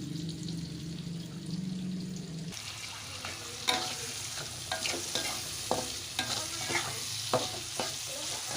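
Sliced shallots sizzling as they are sautéed in hot oil, with a spatula scraping and knocking against the pan in quick irregular strokes after about three and a half seconds. A steady low hum runs for the first two and a half seconds and then stops abruptly.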